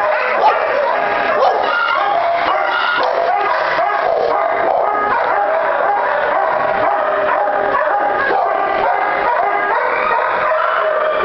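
Many kennel dogs barking, yipping and howling at once, a loud continuous din of overlapping calls.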